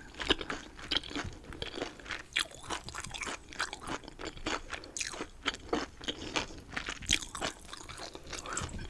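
Close-miked chewing of chicken, a quick run of crisp crunches several times a second with moist chewing between them.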